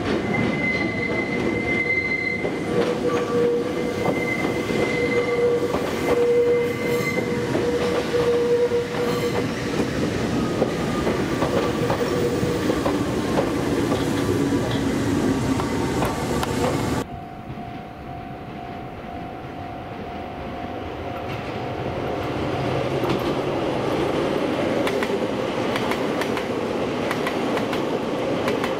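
Kobe Electric Railway electric train running past, wheels squealing on the rails with steady high tones over the running noise. About seventeen seconds in the sound drops suddenly, then a train's running noise slowly builds again.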